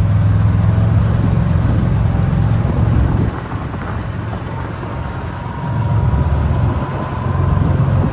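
A vehicle engine running with a deep, steady rumble. The rumble drops about three seconds in and swells again near six seconds.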